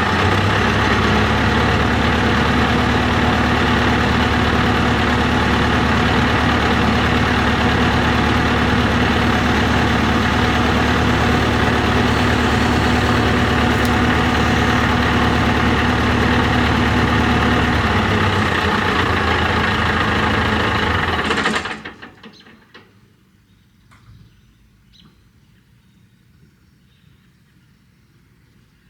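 John Deere 245G excavator's diesel engine running steadily, dropping in speed at about eighteen seconds, then shut off at about twenty-one seconds. Only faint ticks and outdoor background follow.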